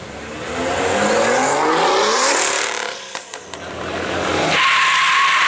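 A car's engine revs up hard over about two seconds, then drops off with a few sharp pops. About four and a half seconds in, the tyres break into a loud, steady squeal as the car does a burnout.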